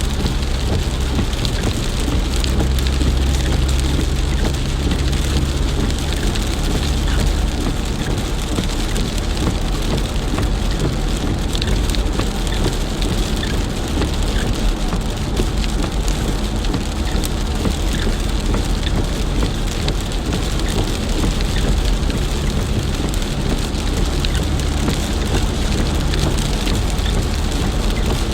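Steady, heavy rain falling and pattering on surfaces, a dense even hiss throughout. A low rumble sits under it for the first several seconds and eases after about seven seconds.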